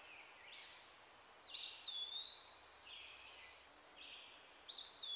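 Wild birds calling: a run of high whistled notes that glide and repeat, with two louder calls, one about a second and a half in and one near the end, that leap up and then hold a steady whistle.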